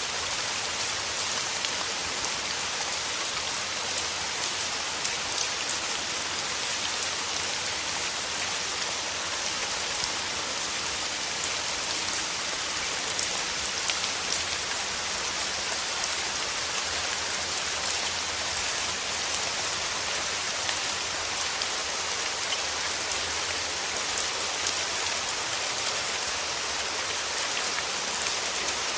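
Steady rain falling: a dense, even hiss of countless drops, with fine individual drop ticks scattered through it.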